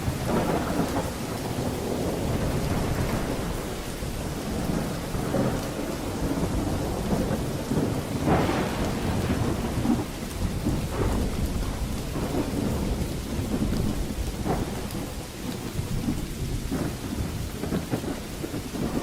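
Thunderstorm: steady heavy rain with rolling thunder rumbling low throughout, and a sharper thunder crack a little past the middle.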